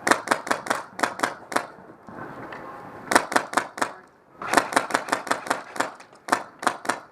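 Airsoft rifle firing rapid strings of shots, about five or six a second. There are four bursts with brief pauses between them.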